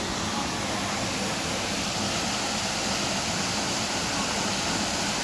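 Tropical waterfall: a steady, even rush of falling water.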